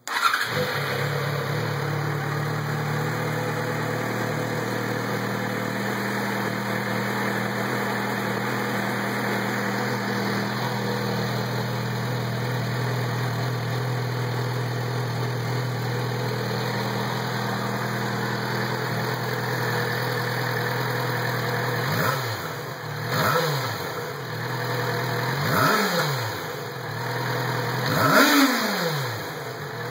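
2010 Yamaha FZ6R's inline-four engine idling steadily through its stock exhaust. In the last several seconds the throttle is blipped four times, each rev rising and falling back to idle, the last one the highest.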